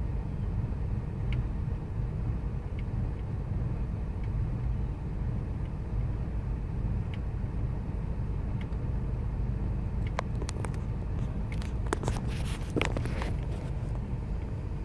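2000 Ford Expedition's 5.4-litre V8 idling with a steady low rumble; the complaint is a rough idle. A faint tick comes about every second and a half, and a short burst of sharp clicks or rattles comes in about two-thirds of the way through.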